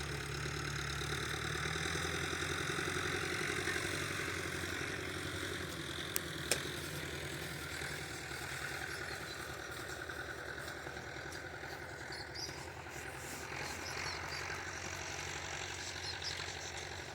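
Tractor engine running steadily, a little louder in the first few seconds, with two sharp clicks about six seconds in.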